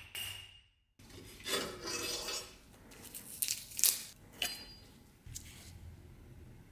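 Small metal parts being handled: scraping and rubbing, with several sharp clinks about three to four seconds in.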